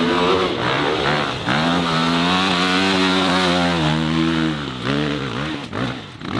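Dirt bike engine revving hard, held at high revs for about three seconds, then dropping off and blipped up again near the end.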